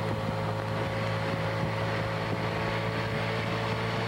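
Motorcycle engine running at a steady speed, heard from on board the bike.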